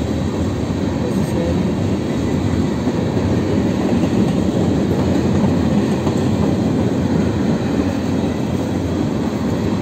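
Freight train cars rolling past at speed: a steady rumble of steel wheels on the rails.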